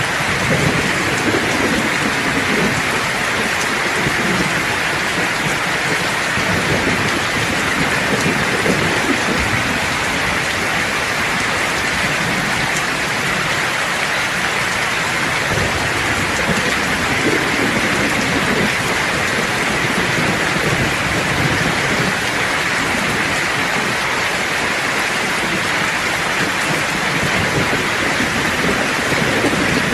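Steady, heavy rain falling, with low distant thunder rumbling underneath and swelling now and then.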